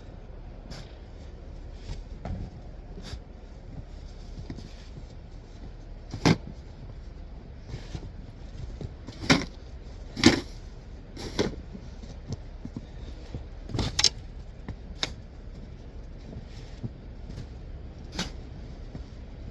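Snow shovel scraping and knocking on packed snow and pavement: a handful of short, sharp strokes at irregular intervals over a steady low rumble.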